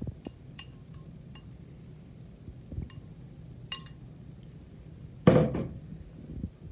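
Kitchenware clinking against a mixing bowl as ingredients go in: several light ringing clinks, then one louder clatter about five seconds in.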